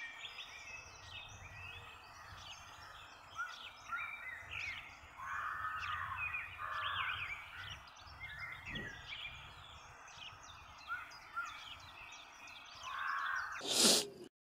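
Outdoor birdsong: many small birds chirping and trilling in quick, overlapping phrases, with a few longer, lower calls among them. A short, loud burst of noise near the end, just before the sound cuts off.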